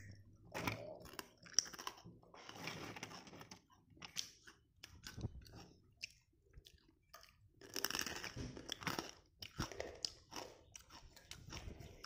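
Crisp fried murukku being bitten and chewed: quiet, irregular crunching in uneven bursts.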